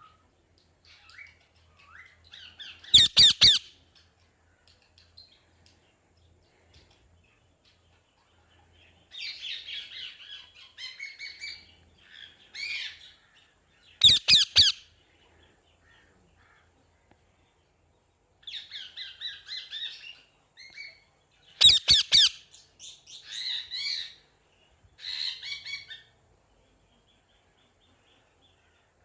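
Parrot calling: three loud, harsh squawks, each a quick cluster of pulses, come a few seconds in, near the middle and about three-quarters through. Runs of softer chattering calls fill the gaps between them.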